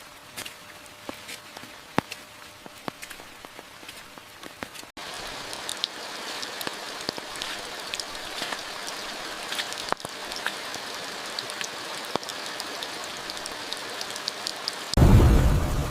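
Rain falling: separate drops pattering for the first few seconds, then from about five seconds in a louder, denser downpour. A sudden loud low rumble starts about a second before the end.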